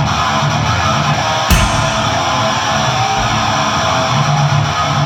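Deathgrind band playing live: loud electric guitar and bass, dense and continuous, with a sharp hit about a second and a half in.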